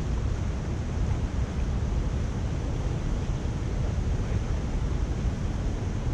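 Steady rush of water draining through a culvert.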